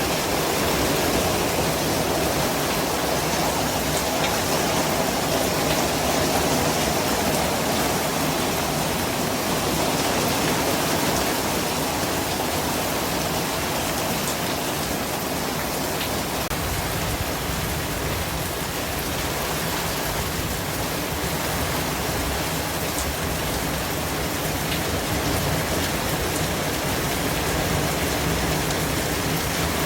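Steady rain-like hiss from a white-noise track, spread evenly across low and high pitches, with a few faint ticks like drops.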